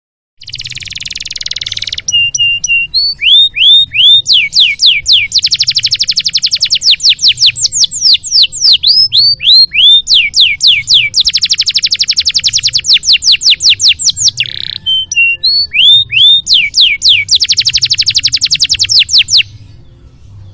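Domestic canary singing a long song of rapid trills and repeated downward-sweeping whistled notes over a faint low hum. The song stops about a second before the end.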